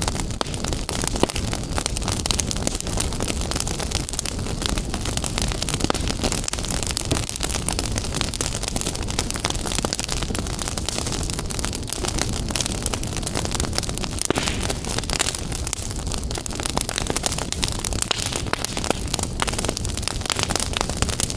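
Wood fire burning in a fireplace: a steady low rumble and hiss with frequent sharp crackles and pops.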